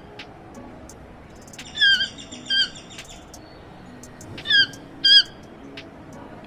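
Short, high-pitched animal calls in pairs, each call a brief note that dips in pitch. The pair comes twice, about two and a half seconds apart.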